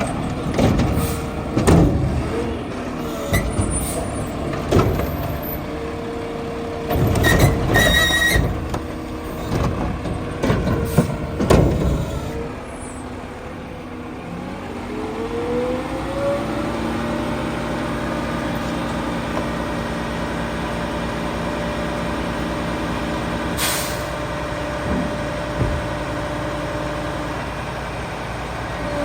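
Mack LR garbage truck with a McNeilus Meridian body working a pickup: a run of loud metal clanks and bangs over the running diesel engine, then the engine revs up and holds at a steady raised speed from about halfway through. There is a short sharp hiss near the end.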